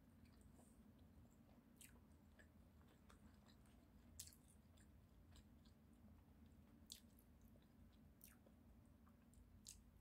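Quiet, close-miked chewing of sushi: soft wet mouth sounds with sharp clicks every second or two.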